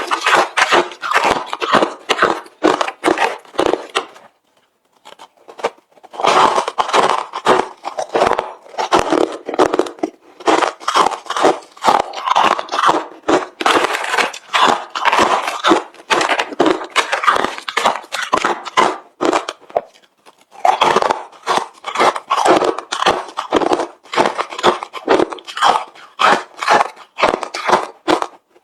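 Close-up chewing of hard refrozen crushed ice: rapid, loud crunches in runs, with brief pauses about four seconds in and again around twenty seconds.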